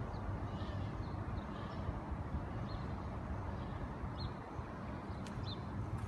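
Small birds giving short, high chirps now and then over a steady low rumble.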